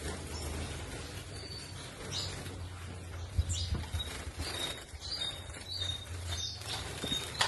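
Many small rescued wild birds chirping with short, high calls and fluttering their wings, over a steady low hum.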